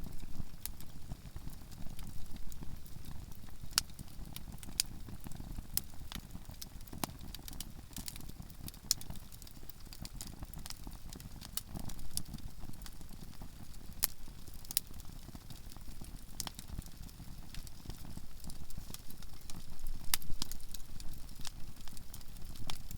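Conifer firewood burning in a campfire, crackling with many sharp pops and snaps at irregular intervals, a few louder than the rest, over a low steady rumble.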